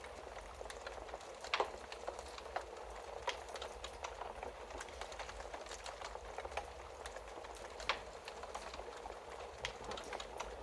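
Wood fire crackling in a fireplace: a steady hiss of burning with frequent small pops and snaps, two louder snaps about a second and a half in and near the end.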